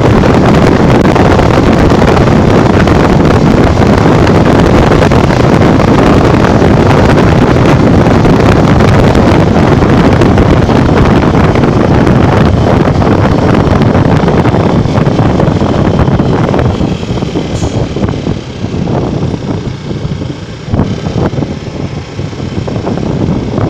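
Wind rushing over the microphone together with a Honda Bros 150 single-cylinder motorcycle running at speed. About two-thirds of the way through the noise drops sharply and turns uneven.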